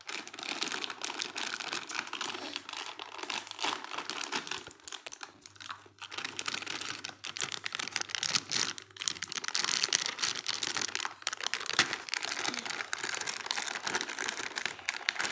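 Plastic snack wrapper crinkling continuously as it is handled and opened, a dense run of small crackles with short lulls about six and nine seconds in.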